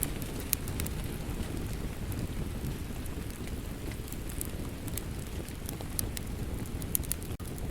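Steady rain mixed with a wood fire crackling, its sharp pops and snaps scattered irregularly over the rain's even hiss and low rumble. A split-second drop-out breaks the sound near the end.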